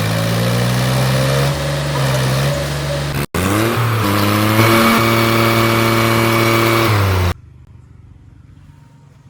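Heavy vehicle engine running and revving, its pitch gliding up just after three seconds in, in edited clips with hard cuts. It stops abruptly after about seven seconds, leaving a faint background.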